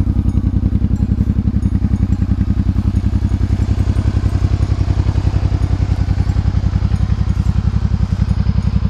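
Engine running steadily at idle, with an even low pulsing of about ten beats a second.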